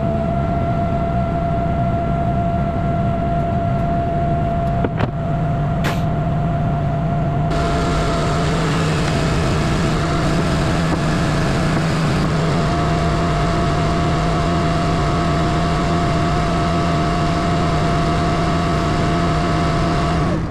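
Semi truck's diesel engine running steadily at idle, with a couple of short clicks about five and six seconds in and a little more hiss from about seven seconds on.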